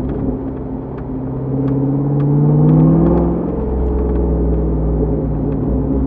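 2005 Corvette C6's 6.0-litre LS2 V8 through a Borla exhaust, pulling under acceleration with its pitch rising for about two seconds, then dropping sharply about halfway through and settling into a steady drone.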